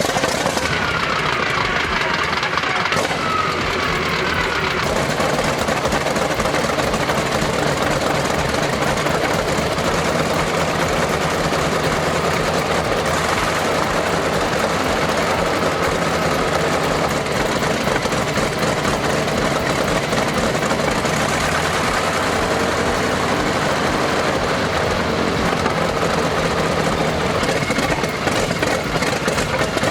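Wright R-1820 Cyclone nine-cylinder radial aircraft engine running steadily after start-up. A whine falls in pitch over the first few seconds.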